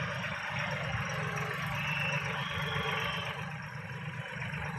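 Tractor diesel engine running steadily, a low even rumble with a faint high tone in the middle.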